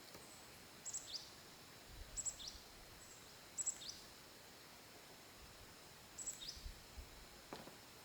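A small bird calling four times, each call a brief high note followed by a quick sliding chirp, over faint steady outdoor background noise.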